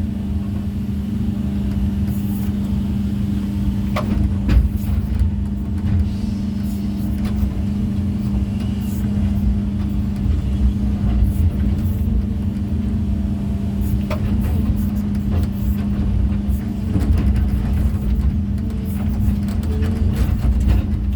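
Engine of heavy construction machinery running steadily, with a few sharp knocks about four seconds in and again around fourteen seconds.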